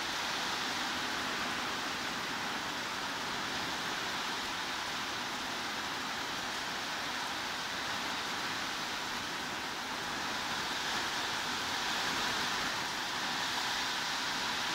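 Heavy rain falling steadily: an even hiss with no single drops standing out.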